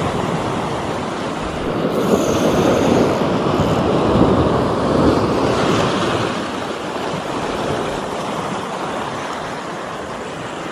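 Sea waves breaking and washing up the beach: a noisy rush that swells for a few seconds and then eases off.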